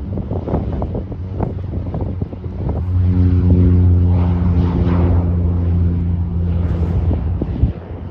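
Piston engine of a light propeller airplane running at a steady pitch, growing louder about three seconds in and dropping away near the end, with wind buffeting the microphone.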